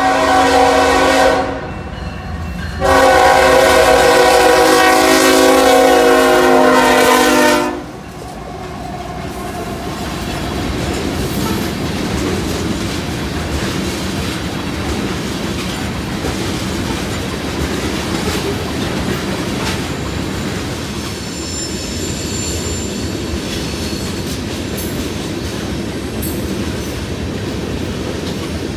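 A freight train's air horn sounds for the grade crossing, a short blast and then a long blast of about five seconds. The train then rolls past with a steady rumble and clickety-clack of wheels on rail joints, with faint wheel squeal later on.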